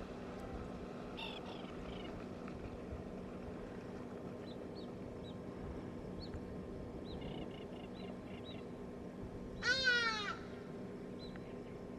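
A steady low hum with small short bird chirps over it. About ten seconds in, one loud animal call that slides down in pitch and lasts under a second.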